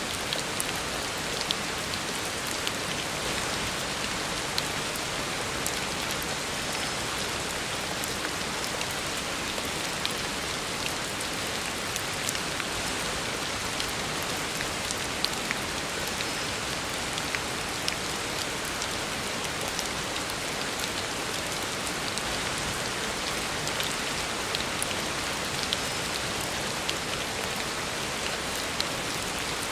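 Heavy rain falling steadily on a road, a dense even hiss with scattered sharper drop ticks.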